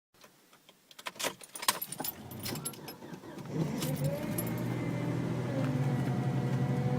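Car keys jingling and clicking in the ignition, then the car's engine starting about three and a half seconds in. It rises briefly in pitch and settles into a steady idle.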